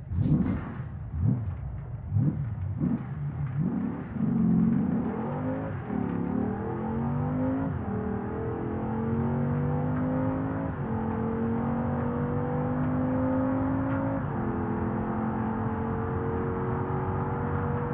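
Porsche Cayenne Turbo S twin-turbo V8 heard from inside the cabin, accelerating through the gears. Its note rises and then drops at four upshifts, climbing more slowly in each higher gear, over steady road noise. The first few seconds hold an uneven low rumble.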